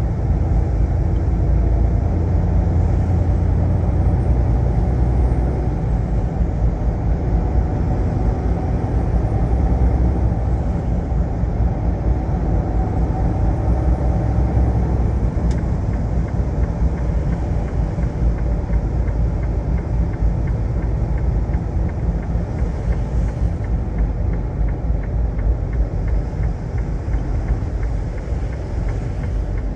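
Semi-truck running on the road: a steady low rumble of engine and road noise.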